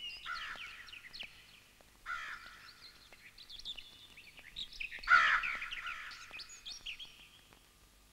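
Birds calling and chirping in short bursts, loudest about five seconds in.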